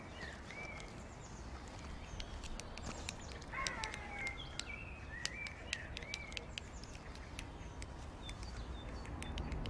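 Small birds chirping in short arched notes, with scattered sharp clicks and a steady low rumble underneath.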